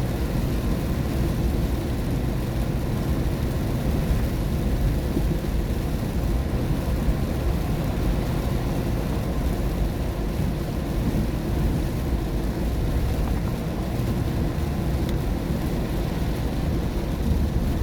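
Steady low rumble of tyres and engine heard inside a moving car's cabin, with rain on the car.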